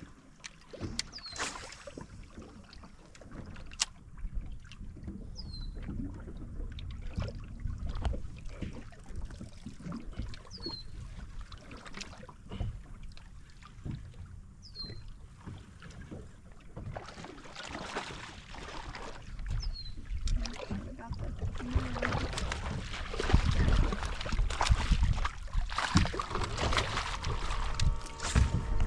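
Wind on the microphone and water sounds around a small fishing boat, with scattered knocks of handling, growing louder in the last third. Five short, high, falling chirps come at intervals of about five seconds.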